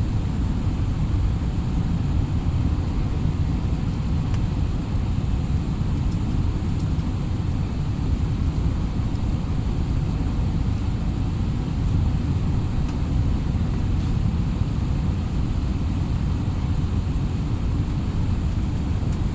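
Aeroplane engines and rushing air making a steady low rumble on a landing approach, with no change in pitch or level.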